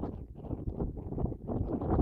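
Wind buffeting the microphone on an open moor, a low, gusting rumble that swells and dips.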